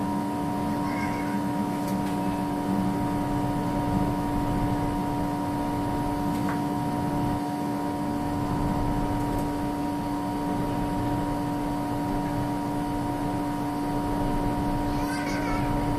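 A steady mechanical hum with several fixed tones over a low rumbling noise, with no sharp bangs. A few brief high chirping sounds come near the end.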